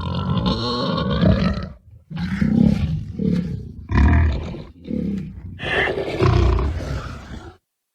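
Designed creature roars voicing the extinct mammal Andrewsarchus. A long roar is followed by a run of shorter roaring grunts and a final longer roar, which stops shortly before the end.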